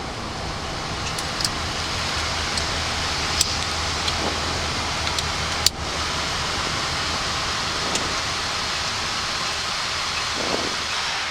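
Steady rushing noise of airflow and engines on the flight deck of a Boeing 737-800 climbing at high speed, with a low hum beneath and a few faint clicks.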